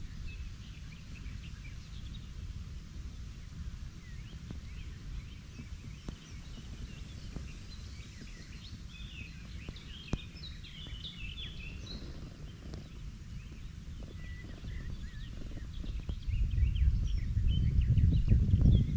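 Wild birds chirping and calling in short, scattered notes over a low rumble of wind on the microphone; the rumble grows louder in the last few seconds. One short sharp click about ten seconds in.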